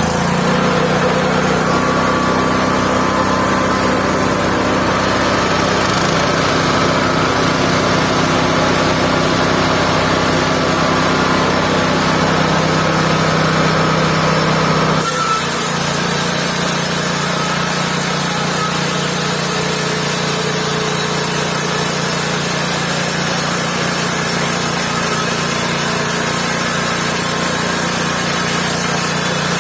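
Mobile band sawmill running steadily under its engine, with the sounds of sawing wood. About halfway through the sound changes abruptly and a high hiss comes in.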